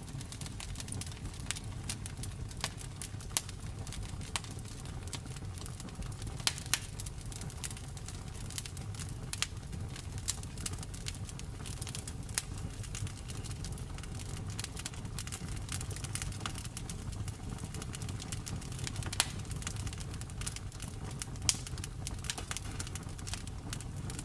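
Wood fire crackling: frequent sharp, irregular pops and snaps, a few of them much louder, over a low steady rumble of the flames.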